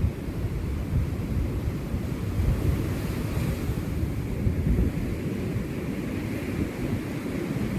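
Sea waves washing onto a beach, with wind buffeting the microphone in a constant low rumble.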